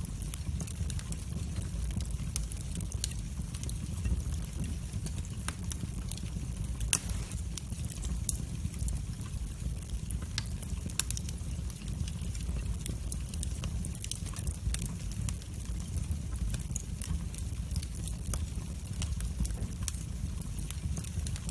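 Wood fire burning in a fireplace: a steady low rumble with irregular sharp crackles and pops, one louder pop about seven seconds in.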